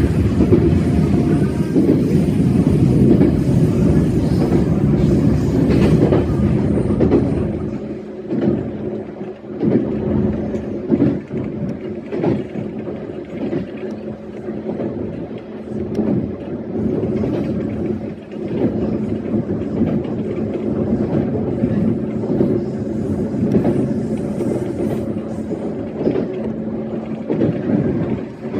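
E131-series electric train running along the line: a steady motor hum with irregular wheel clicks over the rails, heavier and louder for the first several seconds.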